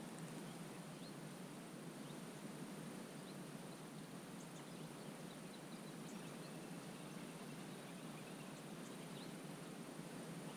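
Quiet lakeside wetland ambience: a steady low rushing hiss with faint, brief high-pitched bird chirps scattered through it, over a thin steady high-pitched tone.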